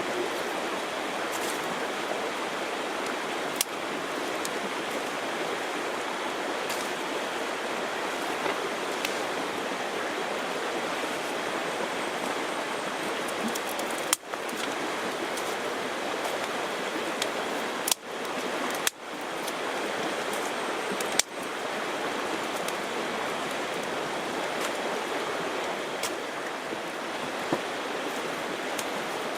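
Steady rush of moving water, with a few sharp clicks scattered through it. The rush drops out briefly four times in the middle stretch.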